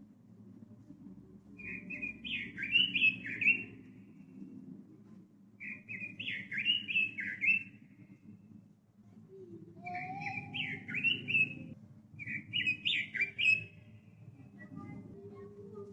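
Pekin robin (red-billed leiothrix) singing: four short warbling phrases of quick rising and falling notes, each about two seconds long, with pauses between them, over a low steady background hum.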